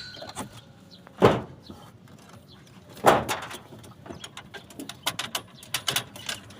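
Two loud, short thumps about two seconds apart, followed by scattered light clicks and taps.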